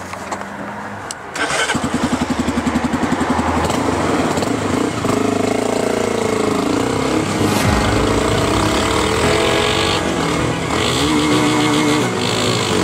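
Motorcycle engine that jumps in loudness about a second and a half in with a fast, even pulsing, then runs with revs rising and falling as the bike rides off.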